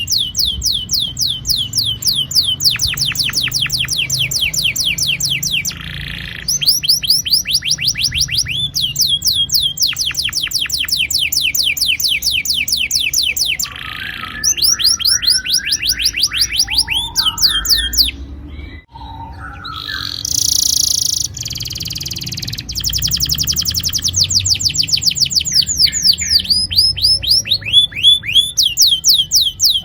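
Domestic canary singing long rolling trills: fast runs of the same falling note repeated many times a second, in phrases of a few seconds, with a few different notes and short pauses between phrases.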